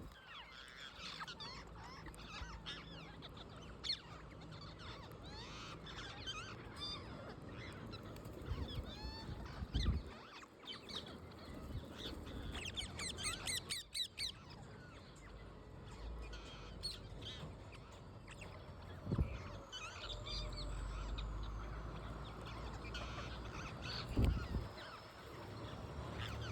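Wild parrots squawking and chattering, many short harsh calls overlapping, with a few low thumps in between.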